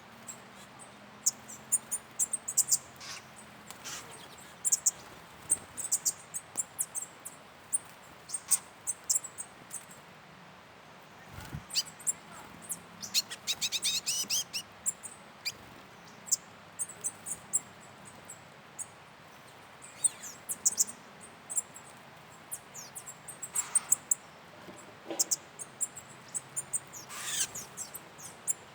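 Wild birds calling: many short, high-pitched chirps scattered irregularly, with a quick rapid trill about halfway through.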